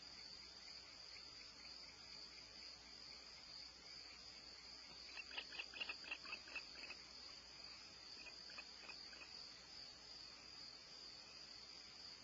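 Faint night chorus of crickets, a steady high-pitched trill. About five seconds in, a quick run of about eight sharp chirps, the loudest sound, with a few fainter ones a couple of seconds later.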